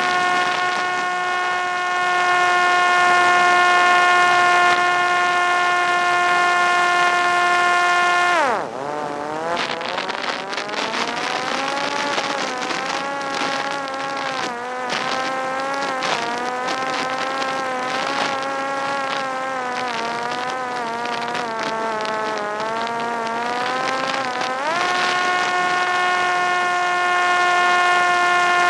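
Parrot Disco fixed-wing drone's electric propeller motor running at a steady high whine. About eight seconds in the pitch drops sharply, then wavers lower with a rushing hiss. Near the end it climbs back to the same steady high whine.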